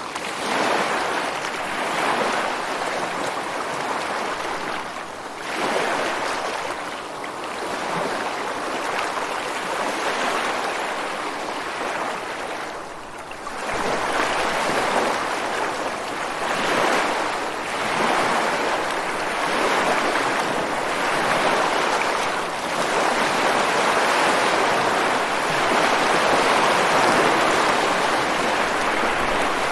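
Ocean surf washing ashore and breaking against rocks in a continuous rush that swells and eases with each wave. There is a short lull about halfway through, then the next wave surges in.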